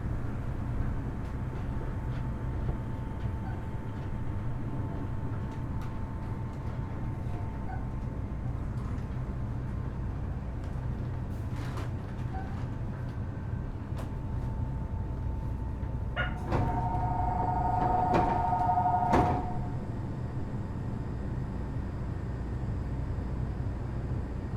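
Kitakyushu Monorail Series 1000 car, Hitachi IGBT-VVVF inverter, braking into a station with a steady low rumble and a faint thin whine that fades out. About 16 seconds in, the doors slide open while a two-tone electronic chime sounds for about two seconds.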